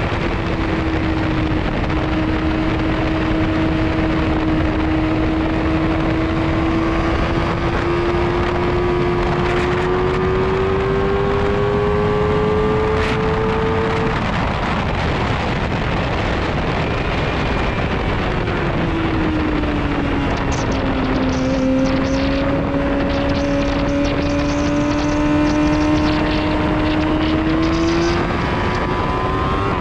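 Onboard sound of a motorcycle engine running hard at high revs, with heavy wind rush over the microphone. The engine note climbs slowly for about fourteen seconds, drops, then climbs again near the end.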